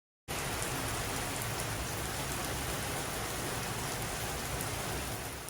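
Heavy rain pouring steadily as a dense, even hiss. It cuts in abruptly a moment in and begins to fade out near the end.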